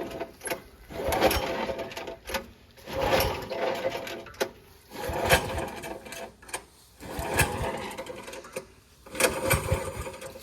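Duromax gasoline engine of a 1974 Melroe M371 skid steer being cranked on choke for a cold start, in repeated bursts about a second long every two seconds, without catching. The engine has sat unused for a long time and has a replacement carburettor.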